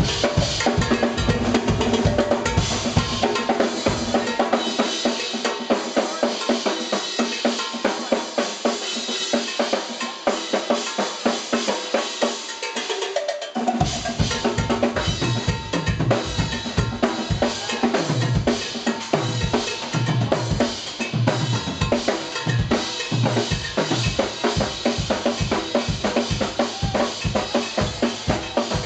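Live jazz-fusion band music driven by a drum kit, with cowbell and rimshots in a busy, even rhythm. The deep bass drops out a few seconds in and comes back in about halfway through.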